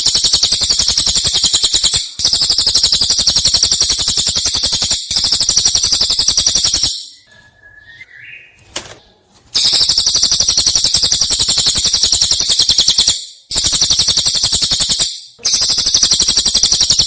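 Prenjak cililin (a prinia) singing its rapid rattling 'nembak' song: long bouts of fast, high repeated notes, each bout lasting a few seconds, with a longer pause about halfway through broken by a short rising call.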